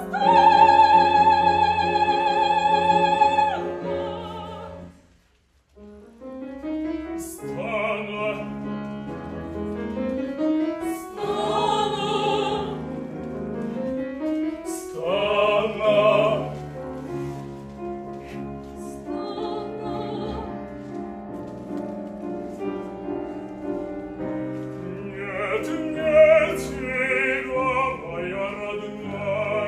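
Operetta singing: a soprano holds one long high note, then the music breaks off briefly about five seconds in. It resumes with singing over piano accompaniment, with several voices joining near the end.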